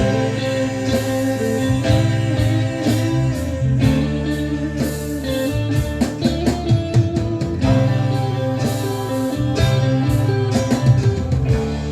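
Instrumental break of a 1970s rock song: electric guitar over bass and a drum kit with cymbal hits.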